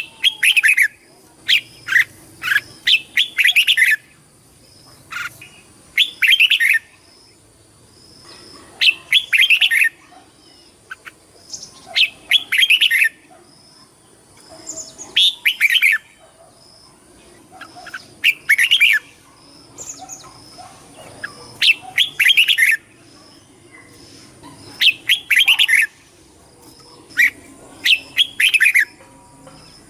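Red-whiskered bulbul singing short phrases of song, one every two to three seconds.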